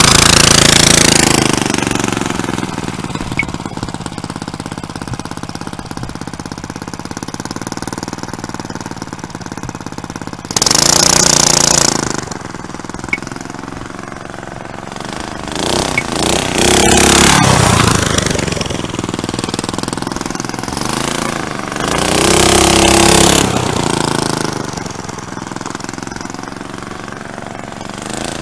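212cc single-cylinder four-stroke engine on a pit-bike trike running with its air filter off. It revs up and down, swelling loud each time the trike comes close, about four times.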